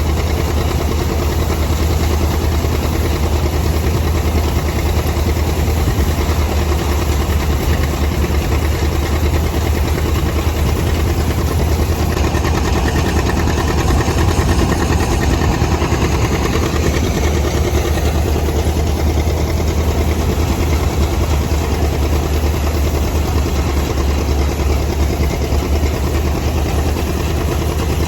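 A tractor engine running steadily at an even speed, with a strong low hum.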